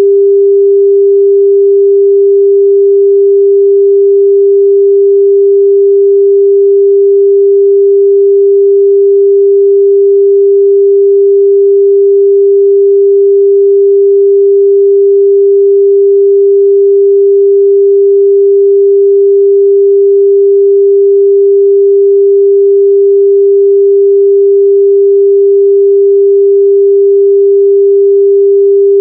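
Continuous 398 Hz sine-wave test tone, a single steady pure pitch held without change.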